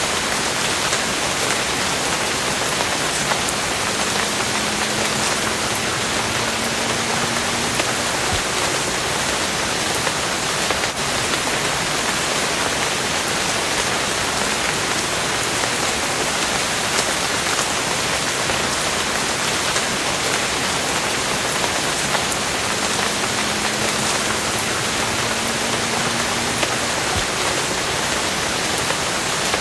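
Steady heavy rain, a dense even hiss of countless drops falling without pause.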